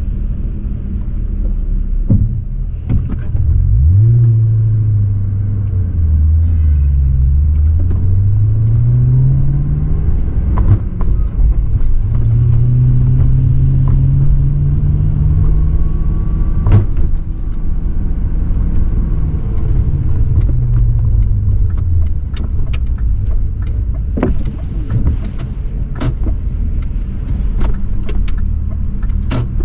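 BMW 540i's 4.4-litre V8 exhaust under way. The engine note climbs sharply about four seconds in, drops back, then climbs again and holds. It falls away after a sharp knock near the middle and settles to a lower drone, with scattered ticks and knocks later on.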